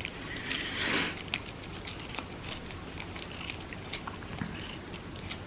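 Scissors snipping crepe paper in a run of short, irregular cuts, cutting a fringe into a paper strip, with a soft rustle about a second in.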